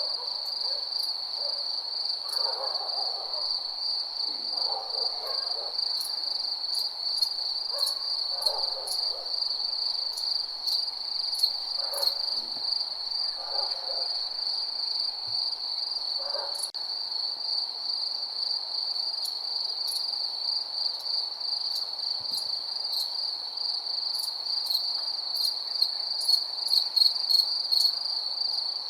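Crickets chirping in a steady, high, pulsing trill. Over the first half, a few short, lower animal calls come in at intervals.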